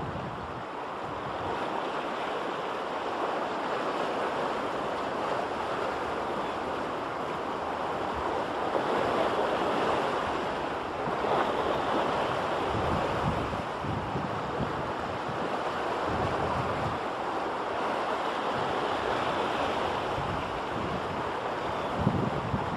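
Steady rushing water noise, with wind buffeting the microphone in uneven low gusts.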